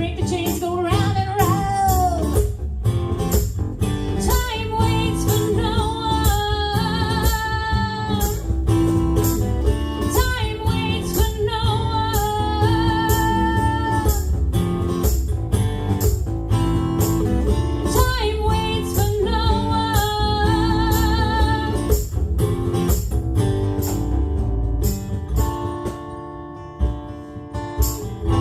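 Live band playing a passage of the song with a steady beat, bass and guitar under a wavering, held melody line; near the end it drops back to quieter sustained guitar chords.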